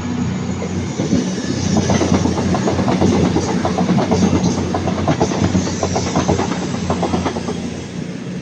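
CrossCountry Voyager diesel multiple unit departing, its underfloor diesel engines running under power and so loud. A rapid clickety-clack of wheels over rail joints builds about a second in and fades near the end.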